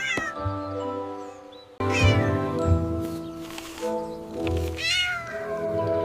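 A cat meowing three times, each meow falling in pitch, over background music.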